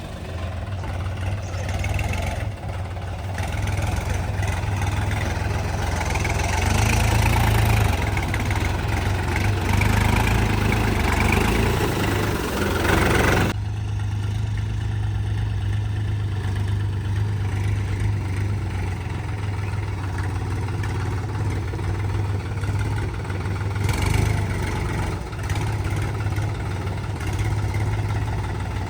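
New Holland 4710 tractor's diesel engine running under load with a loaded trolley, a steady low hum that grows louder for several seconds, then drops abruptly about halfway through and runs on more evenly.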